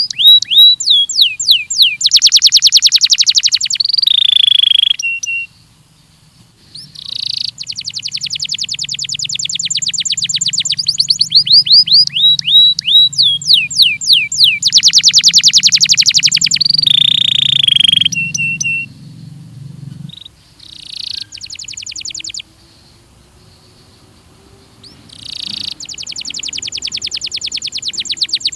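Domestic canary (Belgian canary) singing: long, rapid trills of quickly repeated high notes mixed with falling whistled notes, in several loud bursts separated by brief pauses.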